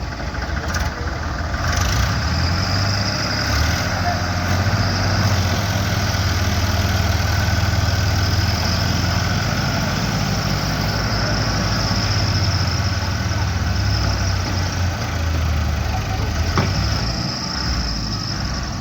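Farmtrac tractor's diesel engine running steadily, a loud low hum that builds about two seconds in and eases slightly near the end.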